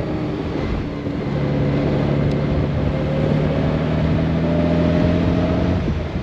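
Honda Gold Wing's flat-six engine pulling under acceleration, its pitch climbing steadily over several seconds. The engine note drops about a second in and again near the end as the dual-clutch gearbox shifts, over a steady rush of wind and road noise.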